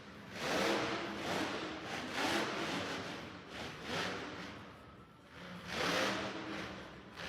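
Vehicle engines revving in repeated loud swells, rising and falling several times.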